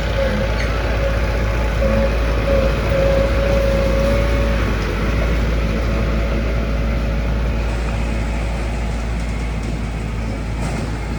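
Diesel engine of heavy road-construction machinery running steadily, with a thin whine that fades out about halfway through.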